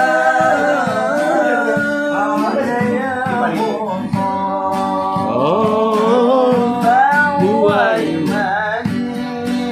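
Music: a voice sings a slow melody with long held notes and sliding ornaments, over plucked and strummed acoustic guitar, in the style of an Islamic sholawat song.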